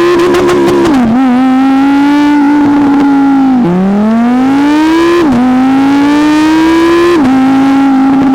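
Audi R8's 5.2-litre naturally aspirated V10 accelerating hard, its note rising through the revs and dropping sharply at each of four quick upshifts.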